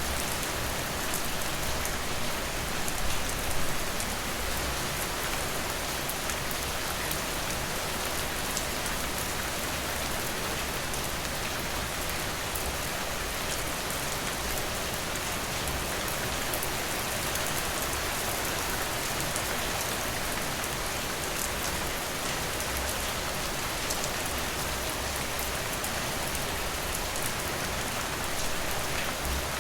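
Steady rain falling, an even hiss with individual drops ticking sharply through it, a little louder for a moment about three seconds in.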